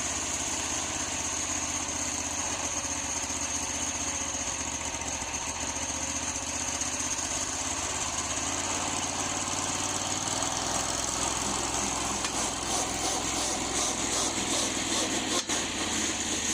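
Predator 670 V-twin gasoline engine of a go-kart monster truck running steadily at low speed, with a slight change in its note about ten seconds in.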